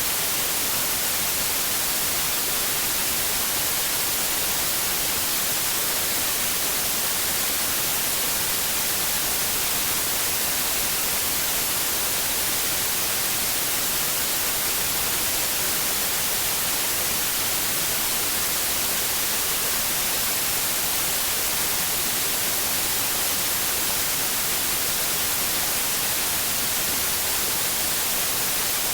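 White noise: a steady, unchanging hiss, brightest in the high end.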